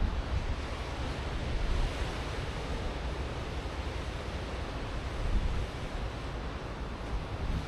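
Ocean surf washing onto a sandy beach: a steady rushing wash that swells about two seconds in, with low wind rumble on the microphone underneath.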